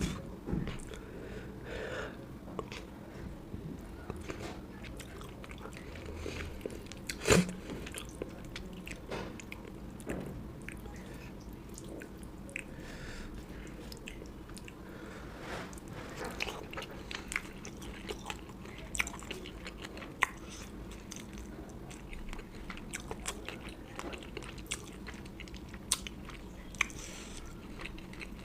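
Close-miked eating sounds: a person chewing and biting food, with crunchy bites and small wet mouth clicks scattered throughout. A single sharper knock stands out about seven seconds in.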